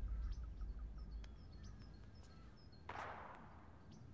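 Quiet room ambience with faint short bird chirps from outside and a low drone of film score fading out in the first second or so. A brief hiss swells and dies away about three seconds in.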